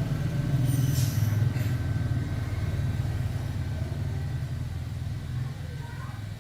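Engine running steadily with a low-pitched, fast-pulsing sound that slowly grows quieter over the last few seconds, with a brief hiss about a second in.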